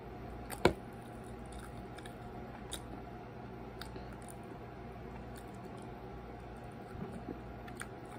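A child chewing pizza with quiet mouth sounds and small soft clicks over a steady low room hum, with one sharp knock about a second in.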